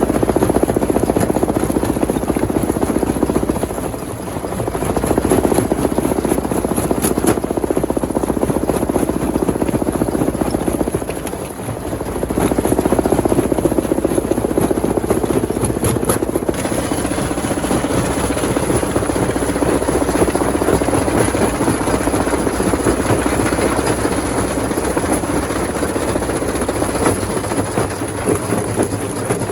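Rock crusher machine running under load: a loud, continuous heavy mechanical rumble, dipping briefly twice.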